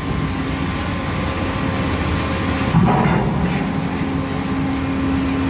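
Steady running noise on board a ship, an even rumble with a held low drone, swelling briefly about three seconds in.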